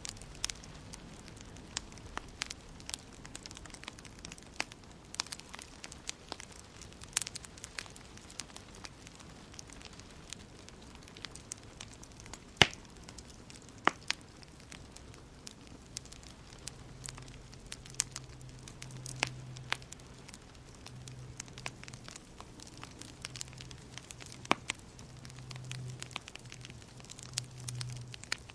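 Wood fire in a fireplace crackling: irregular sharp pops and snaps over a soft hiss, one louder pop about halfway through. A faint low hum comes in during the second half.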